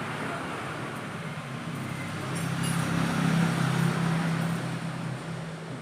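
A motor vehicle engine running with a steady low hum, growing louder for a couple of seconds in the middle and then easing off.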